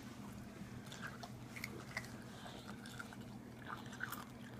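Faint chewing and crunching of gingerbread and candy, with scattered small clicks, over a steady low hum.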